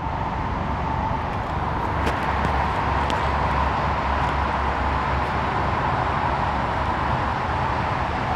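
Steady low rumble and hiss of outdoor background noise, with a couple of faint clicks about two and three seconds in.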